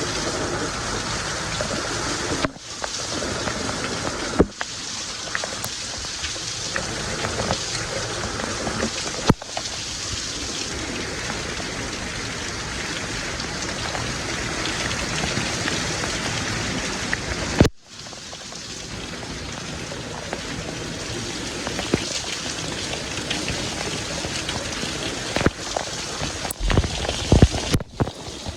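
Steady rain falling, a dense even hiss of drops hitting surfaces. It cuts out for an instant a few times, and sharper, louder spatters come through near the end.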